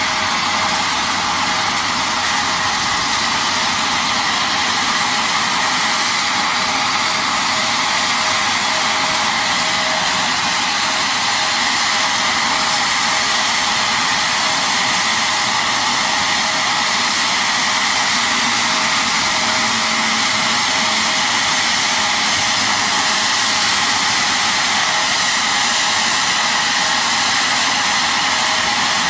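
Steady, loud rushing hiss from machinery running without change, with a thin constant whine through it.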